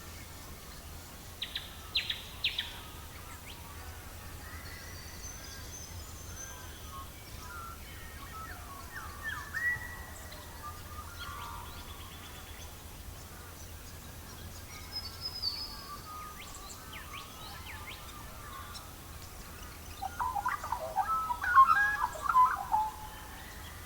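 Birds chirping and calling at intervals, with short pitched chirps and glides and the loudest burst of calls near the end, over a steady low background hum.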